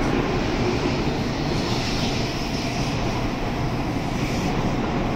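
N700S Shinkansen train pulling out of the station, its cars passing close by with a steady rushing noise.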